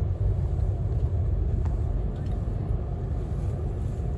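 Passenger train running, a steady low rumble heard inside the carriage.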